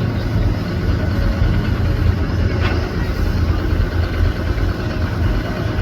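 A vehicle engine running steadily with a low rumble, most likely a big truck's diesel.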